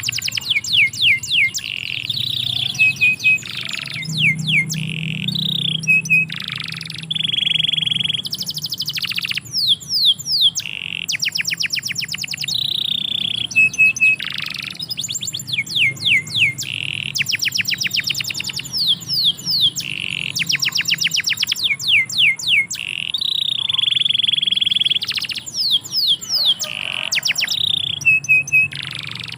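Domestic canary singing a long, continuous song: fast trills of rapidly repeated downward-sweeping notes alternating with held, steady whistled notes of about a second.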